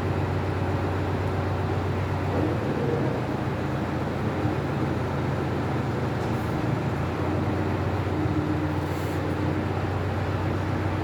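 A tow truck's engine running steadily, a constant low hum.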